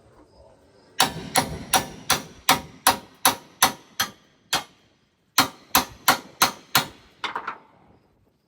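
Hammer blows ringing on the steel of a combine concave being changed. About ten strikes at roughly three a second, a short pause, then a quicker run of about six, ending in a few lighter taps.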